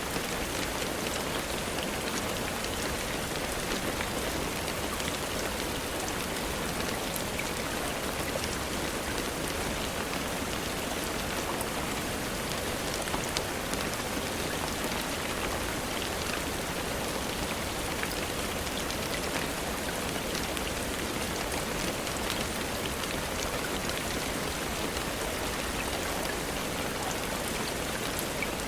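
Steady rainfall: an even hiss with scattered small drop ticks.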